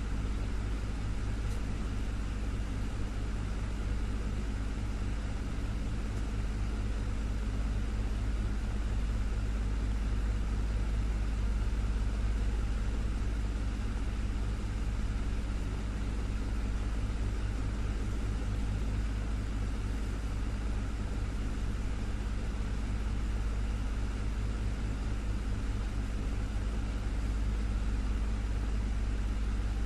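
Desktop fan running steadily: a constant low hum with faint steady tones under an even whoosh of moving air.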